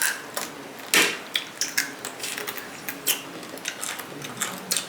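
A small river crab's shell being cracked and broken apart by hand and teeth: a run of sharp cracks and crunches, the loudest about a second in.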